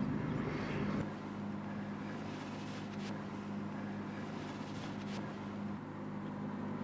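Car engine running steadily, heard from inside the cabin as a low, even hum; the deepest rumble thins out about a second in.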